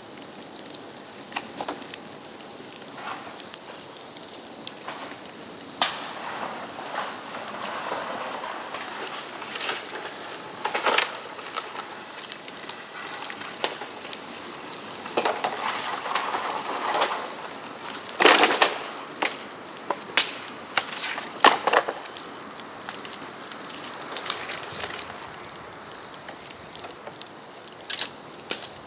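Bamboo burning in an open fire, crackling with irregular sharp pops and cracks, the loudest a little past the middle. A thin, steady, high whistle comes and goes twice.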